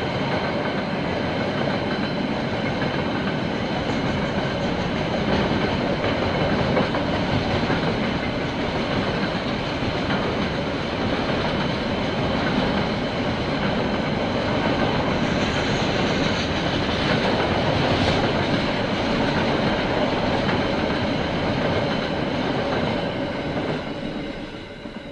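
KiwiRail train passing, its wagons rolling steadily over the track, fading away near the end.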